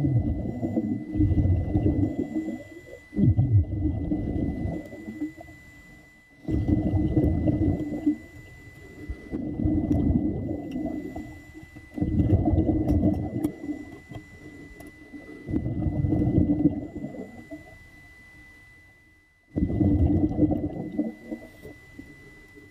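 Muffled gurgling and bubbling of seawater around a submerged camera, coming in surges every few seconds with quieter gaps between, over a faint steady high tone.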